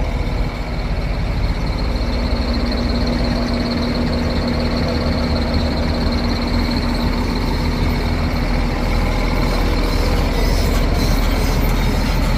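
Diesel engine of a Volvo EC460BLC excavator running steadily after a no-start, with a thin steady whine over it.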